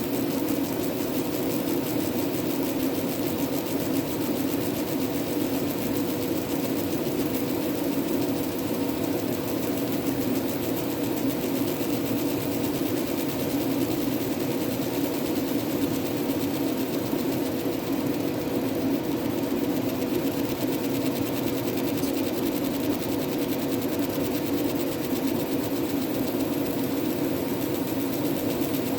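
Fiber laser engraving machine running through a marking job, giving a steady buzzing hum with a constant tone that does not change.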